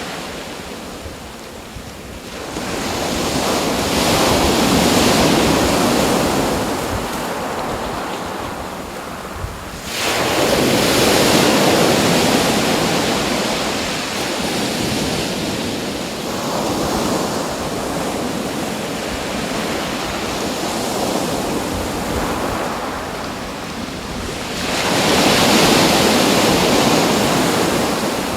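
Sea waves breaking and washing in, the rushing noise swelling and fading in slow surges, one coming in suddenly about ten seconds in and another building near the end.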